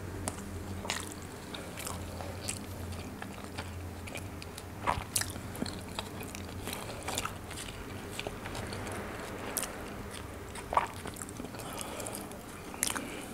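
Close-miked chewing and mouth sounds of someone eating chicken Afghani with jeera rice, with scattered sharp clicks of a spoon and fork against the plates, over a low steady hum.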